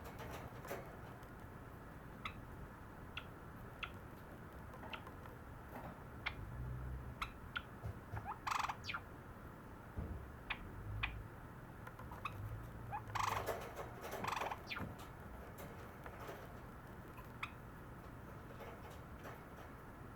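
Pet Java sparrow singing: a scattered run of short clicks and chips, with louder, fuller song phrases about eight seconds in and again around thirteen to fifteen seconds.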